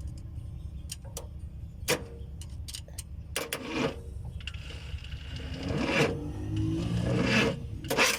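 Hands and metal tools working in a pickup's engine bay, with several sharp clicks and knocks and a louder stretch of scraping, shifting mechanical noise a few seconds in, over a steady low rumble.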